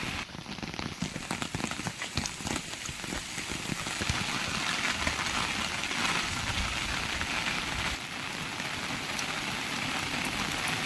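Steady rainfall, with many separate drops striking nearby surfaces; the individual strikes are most distinct in the first few seconds.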